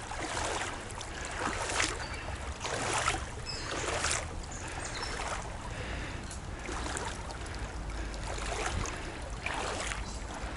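Footsteps wading through a shallow brook, with soft sloshing splashes about once a second over a steady low rumble of water.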